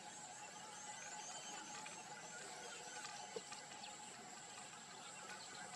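Faint wild outdoor ambience: a steady high-pitched insect drone with a lower steady hum under it, a quick run of bird-like chirps about a second in, and one short click a little past the middle.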